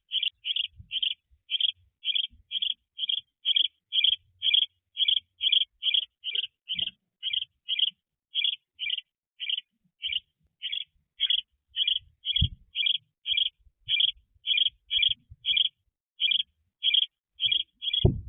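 A bird repeating one short, high chip note over and over, about two or three notes a second. There is a soft low thump about twelve seconds in.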